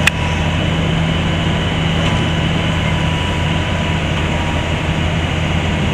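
Heavy excavator's diesel engine running steadily at a constant note, with a sharp click right at the start.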